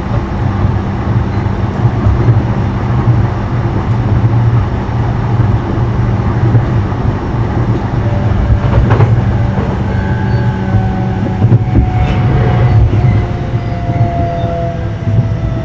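JR East E233-0 series electric train running, heard from inside a motor car: a steady heavy rumble of wheels on rail, with a sharp tick about nine seconds in. From about ten seconds in, the Mitsubishi IGBT inverter and traction motor whine sounds as two tones sinking slowly in pitch as the train slows.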